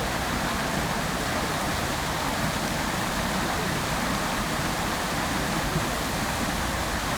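Fountain water splashing steadily into its basin, a dense, even rush of falling water.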